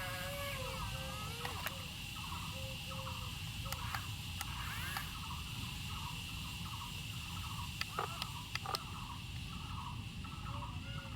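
Steady high insect drone with a regular pulsing chirp, and a few sharp clicks about eight seconds in.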